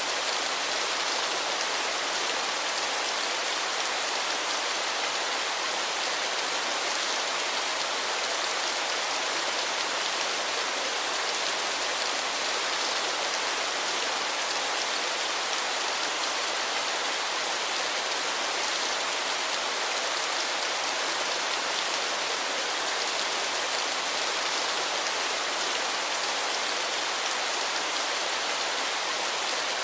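Waterfall: a steady, unbroken rush and splash of falling water, hissy and bright, with little low rumble.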